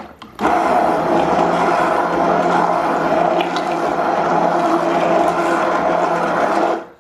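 Immersion blender running in a pot of cooked potato soup, pureeing the potatoes. It starts about half a second in, runs steadily with a constant motor hum for about six seconds, and is switched off near the end.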